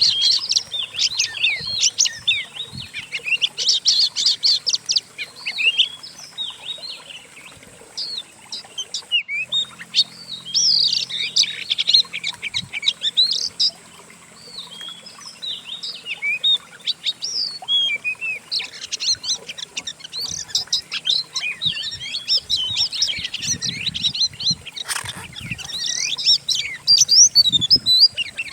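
Songbird songs from several species mixed together: rapid chirps, trills and whistled phrases, the kind of combined song used as masteran to train an oriental magpie-robin (kacer). The mix breaks off for an instant about nine seconds in, then the song carries on, and a sharp click comes near the end.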